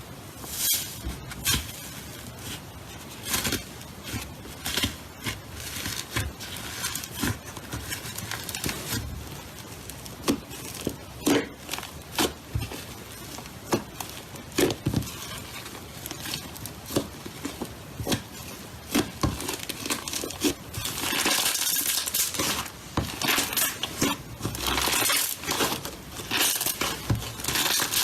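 Slime being squeezed and worked by hand, making irregular sticky pops and crackles that come thicker and louder in the last third.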